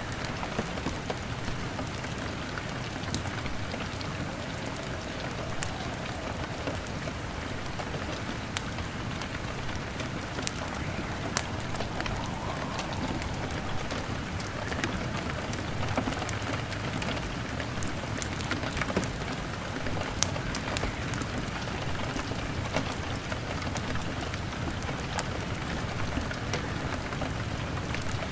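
Steady rain hammering on a window, an even hiss with many scattered sharp clicks, over a crackling log fire.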